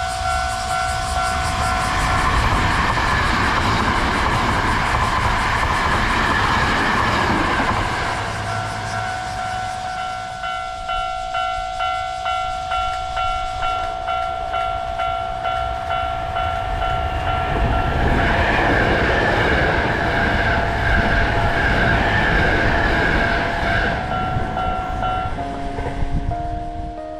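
Two Hankyu electric trains pass at speed, their wheels clattering over the rail joints. A level-crossing bell rings steadily at about one and a half strokes a second through both passes and stops near the end.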